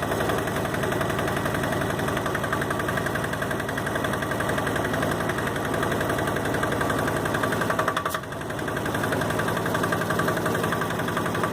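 Yanmar YM122 garden tractor's single-cylinder liquid-cooled diesel running at a steady speed with a clattery knock, the engine still cold. The sound dips briefly about eight seconds in.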